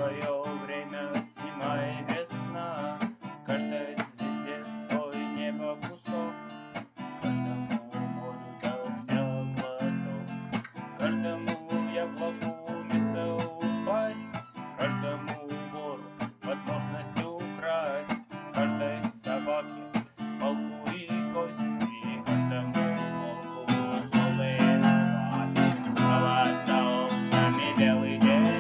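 Acoustic guitar playing solo and instrumental: strummed chords with a melody line over them, growing louder over the last several seconds.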